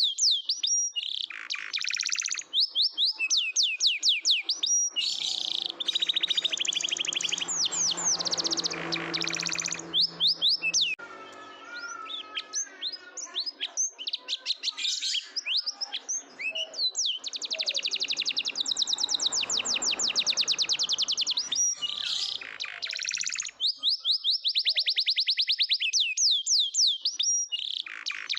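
Domestic canary singing: long runs of fast trills and rolls, broken by short pauses, with a softer stretch of lower, gliding notes about twelve seconds in.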